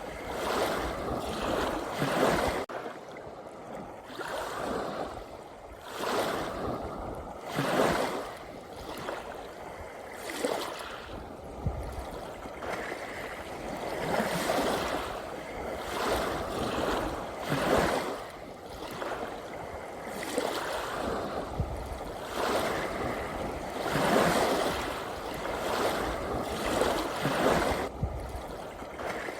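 Sea waves washing in and out, a rushing surge of foam every two to four seconds.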